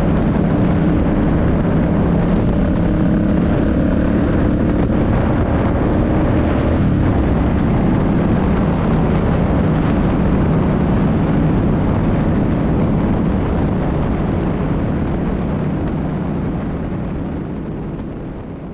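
Suzuki C50's 805 cc V-twin engine running under way, with wind rushing past. The engine note holds steady and then shifts about seven seconds in. The sound fades out gradually over the last few seconds.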